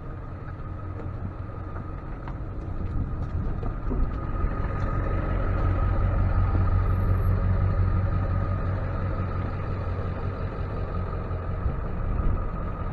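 Tow truck engine running steadily, a low rumble that grows louder toward the middle and then eases, with a faint steady whine above it.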